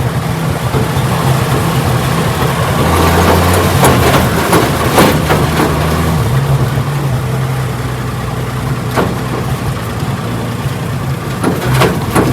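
A 1968 Ford Bronco's engine running as it drives over bumpy ground, its note shifting a few seconds in, with several sharp knocks and rattles as it hits bumps. The loose body and worn shocks rattle over the rough ground.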